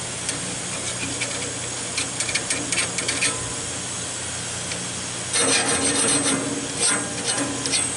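A hand file rasping across the teeth of a sawmill bandsaw blade to sharpen it. There are two clusters of short strokes, one about two seconds in and another from about five seconds in, over a steady low hum.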